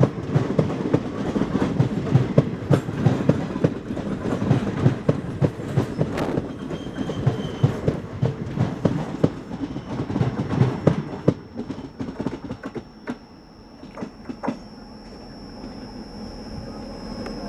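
Passenger train coaches rolling past over rail joints with a rapid clickety-clack, which fades out about twelve seconds in, leaving a few scattered clicks and a faint, steady, high-pitched whine.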